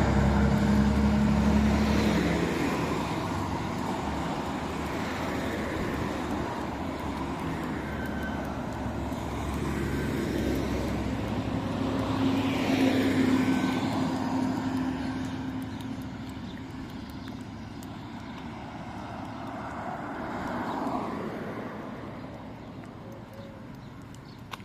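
Street traffic: motor vehicles passing one after another. An engine close by at the start fades within about two seconds, another vehicle passes loudest about twelve to thirteen seconds in, and a fainter one passes near twenty-one seconds.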